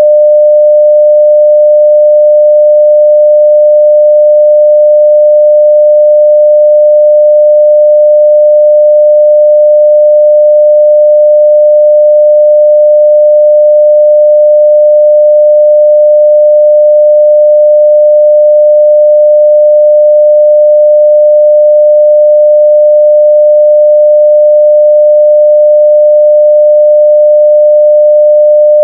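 A 600 Hz pure sine-wave test tone at full scale (0 dB), held at one steady pitch and level.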